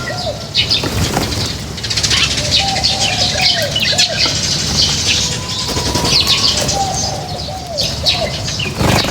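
A flock of birds chirping busily with many short high calls, amid wing flapping and scuffling as they feed.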